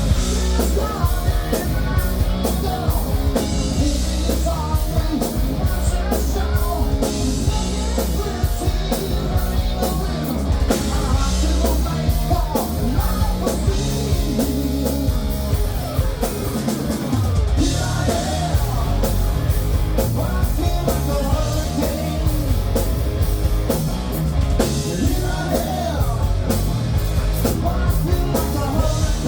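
Rock band playing a hard-rock song: drum kit and electric guitars with a singing voice.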